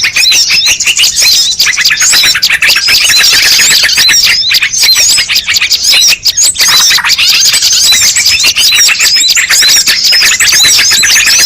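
A bird-lure recording: a dense chorus of many small birds chirping and twittering at once, with rapid, overlapping short calls that keep going without a break.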